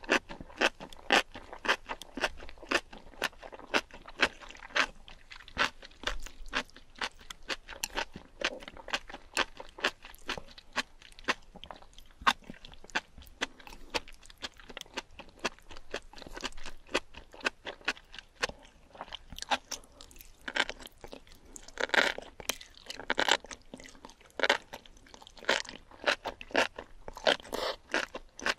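Close-miked chewing and biting of enoki mushrooms in spicy sauce: a steady run of short crunching clicks, a few every second, louder for a stretch about three-quarters of the way through.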